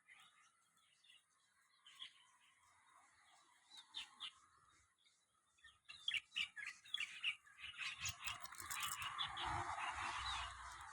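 Small birds chirping in short, quick notes, sparse at first and busier from about six seconds in, with a rustling noise joining them for the last few seconds.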